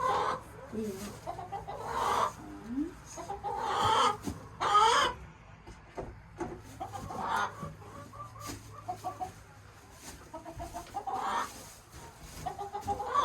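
Hens clucking around the nesting boxes, with several louder calls about two, four and five seconds in and a few small knocks between them.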